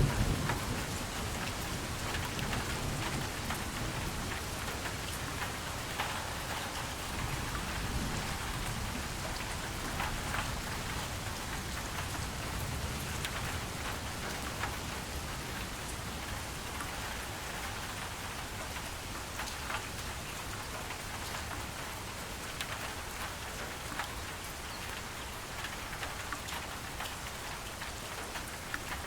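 Steady rain falling, with many individual drops pattering on a surface. A low rumble of distant thunder fades away over the first few seconds.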